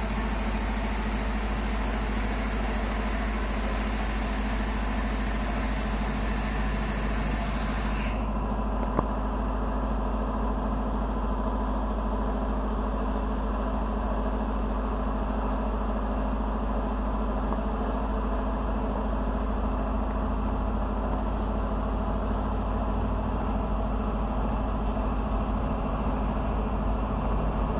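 Automatic car wash equipment running with a steady motor hum. A spraying hiss over it cuts off about eight seconds in, leaving the hum.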